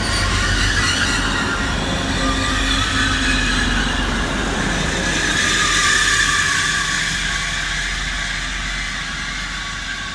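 Class 180 diesel multiple unit braking into a platform, its brakes squealing in several high, wavering tones over the low rumble of its diesel engines. The squeal eases off over the last few seconds as the train slows.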